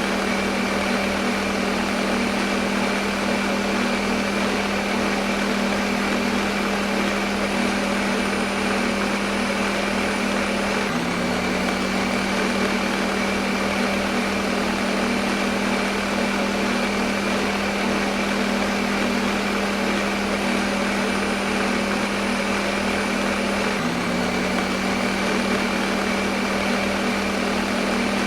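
Electric blender motor running steadily at constant speed: a steady motor hum over even rushing noise, with an abrupt small shift in pitch twice.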